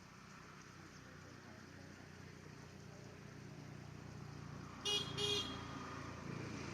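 A motor vehicle's engine rumbling and slowly growing louder as it approaches, with two short horn toots about five seconds in.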